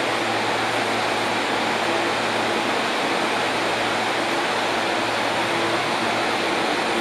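Steady rushing noise with a faint low hum beside a Nishitetsu 3000 series electric train at a station platform, from its air conditioning and onboard equipment.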